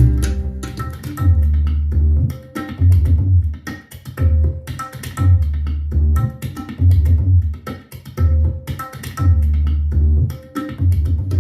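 Music played back through a portable Bluetooth speaker, with a deep bass beat about once a second under percussion and melody.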